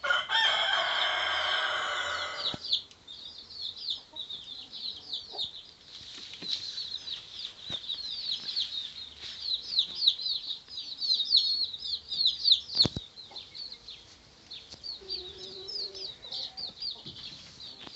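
Birds, likely poultry, calling: a loud, drawn-out call with a steady pitch for the first two and a half seconds, then a dense run of quick, high chirps.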